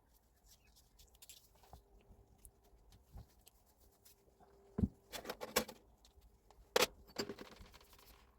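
Handling noises during a tool rebuild: a scattered series of clicks and knocks, the loudest about five and seven seconds in, over a faint steady hum.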